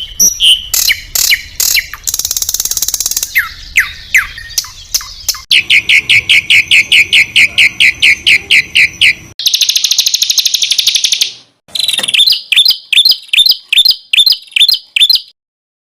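A masteran track of small songbirds' calls edited together in quick succession: assorted chirps and falling whistles, then a fast run of repeated sharp notes for about four seconds (the rapid 'tembakan' bursts that competition birds are trained to copy), a buzzy rattle, and a series of high repeated notes. Each segment stops abruptly, and the last ends just before the end.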